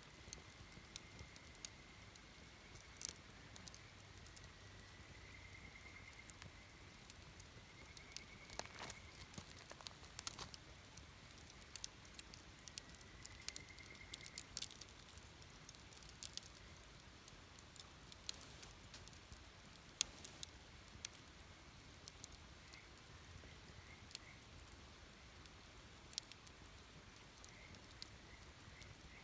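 Campfire burning quietly, the wood crackling and popping in irregular sharp clicks. A faint thin high whistle comes and goes a few times in the first half.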